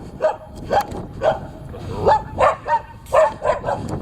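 Dogs barking again and again in short barks, about two a second.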